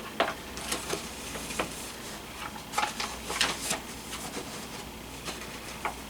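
Scattered soft rustles and light clicks of handling, with several short rustles bunched together about three seconds in.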